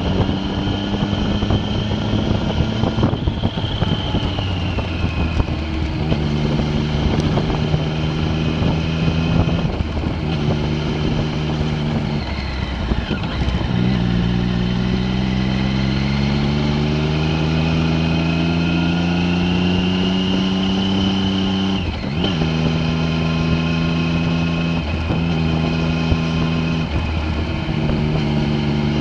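A vehicle's engine being driven through the gears on a winding mountain road. It runs at steady pitches broken by short dips at gear changes and lifts of the throttle. About halfway through there is a long, slow rise in pitch as it accelerates.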